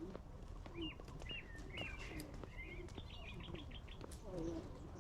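A bird chirping: a handful of short, separate notes, then a quick run of notes in the middle, over a low steady background rumble.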